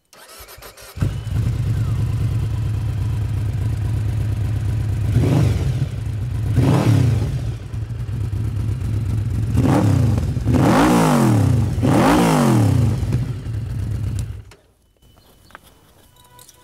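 Yamaha VMax V4 motorcycle engine idling, blipped up and back down five times, two revs and then three in quick succession, before stopping abruptly near the end.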